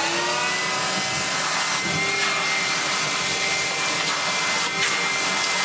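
Numatic Henry canister vacuum cleaner running with a steady motor whine, its pitch levelling off in the first moment just after switch-on, with a few faint clicks as it sucks up debris.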